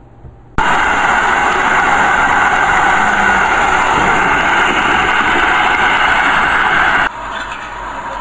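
Heavy diesel machinery engine running loud and steady. It starts abruptly about half a second in and cuts off suddenly near the end, where a quieter steady background carries on.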